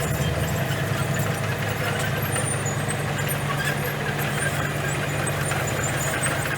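Bulldozer diesel engine running at a steady pitch.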